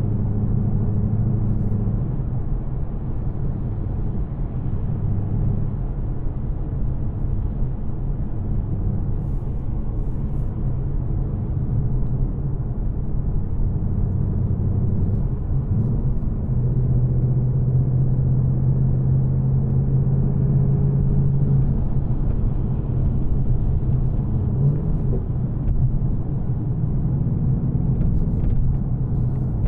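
Engine of a manual 2024 Mustang GT, a 5.0-litre V8 without headers, running at a steady cruise. A continuous low drone shifts in pitch a few times.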